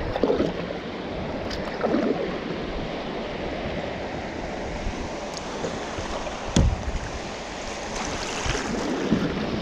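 Rushing water of a shallow creek rapid around a kayak, a steady loud rush, with a few knocks from the kayak, the strongest about two-thirds of the way through.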